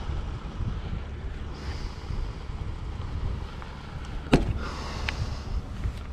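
Low rumble of wind on the microphone, with one sharp knock or clank about four seconds in.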